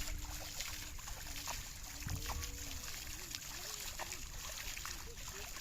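Water trickling and dripping, with many small ticks, under faint voices.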